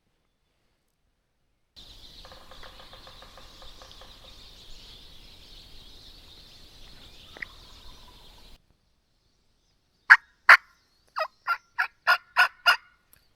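A wild turkey gobble, faint and distant, about two seconds in, a quick rattling run of notes. Near the end, a loud, close series of eight turkey yelps, evenly spaced, the first two the loudest.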